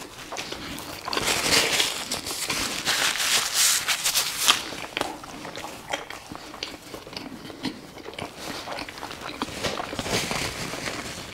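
Close-up chewing of a mouthful of food, with wet clicks and crunches, mixed with the rustling and crumpling of paper napkins. The crackly rustle is heaviest in the first few seconds.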